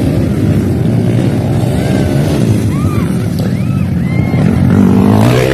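Motocross dirt bike engines running, with one bike revving up near the end.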